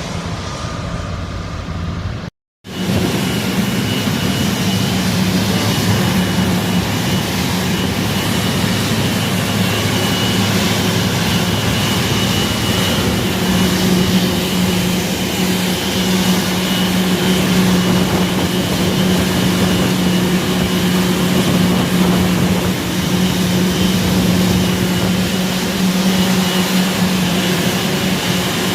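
Aircraft engine running steadily: a constant hum with a thin high whine above it. The sound breaks off for a moment about two seconds in and resumes at the same level.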